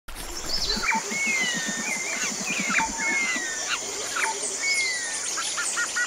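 Birdsong: a whistled phrase repeated three times, each a sharp chirp followed by a long, slightly falling note, among other chirps over a steady high hiss. A low, rapid pulsing runs under it for the first few seconds.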